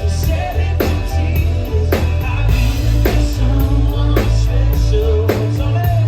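Live band playing amplified rock-pop music, with a steady drum beat and heavy bass.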